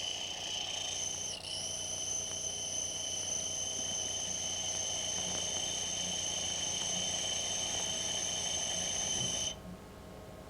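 Orthodontic ligature cutter being honed on the spinning ceramic disc of an RX Companion disc honing machine, giving a steady high-pitched whine at several pitches. The whine falters briefly about a second and a half in and cuts off suddenly near the end.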